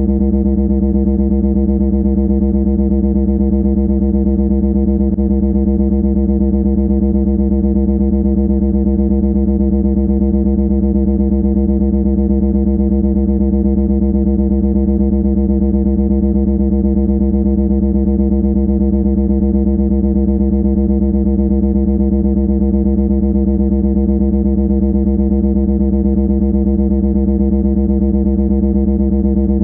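A loud, harsh buzzing tone held at one low pitch, steady and unchanging throughout, with a distorted, guitar-like timbre.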